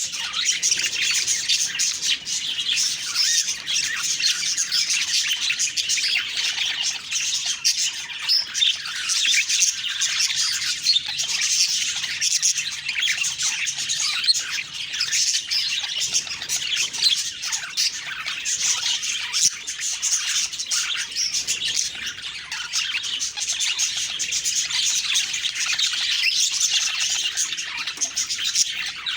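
A flock of budgerigars chirping, warbling and squawking continuously, many birds calling over one another without a break.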